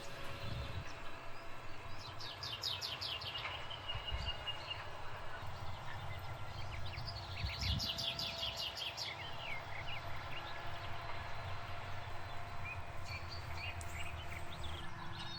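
Songbirds singing in short, rapid trilled phrases, twice, over the steady low rumble of farm machinery working a field.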